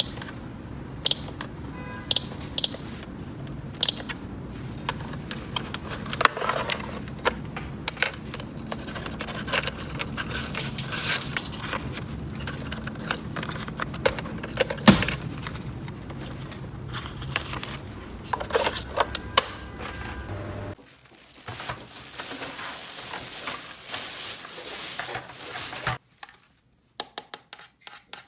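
A few short, high electronic beeps in the first four seconds, like a toy cash register or scanner, then many light clicks and rattles of plastic toy pieces being handled over a steady low hum. Later comes a few seconds of rustling hiss, and then a few soft clicks.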